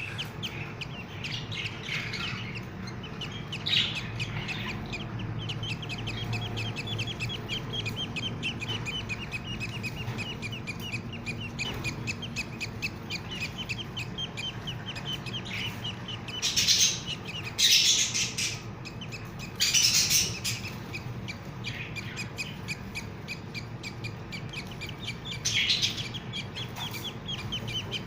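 Budgerigars calling: a baby budgie's rapid, steady run of short, high chirps, several a second, broken by a few louder, harsh squawks, two close together about two-thirds of the way through.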